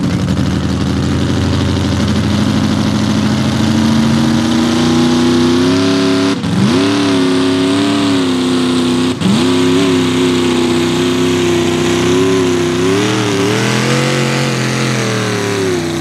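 Mini rod pulling tractor's engine at full throttle during a pull, its pitch climbing steadily for the first six seconds. It briefly dips twice, wavers up and down, and falls away near the end.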